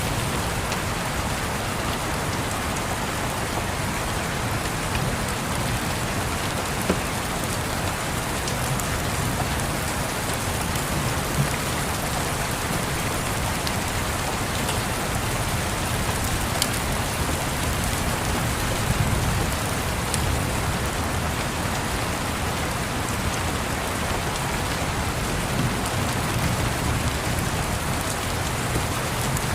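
Steady rain falling, with a low rumble of distant thunder swelling and fading under it, and a few sharp crackles from a wood fire.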